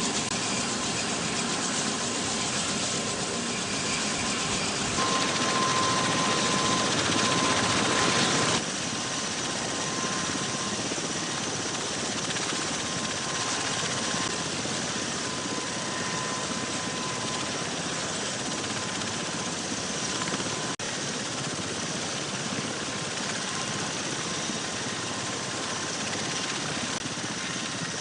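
V-22 Osprey tiltrotor's turboshaft engines and proprotors running: a steady roar with a high whine. It gets louder suddenly about five seconds in and drops back abruptly a few seconds later.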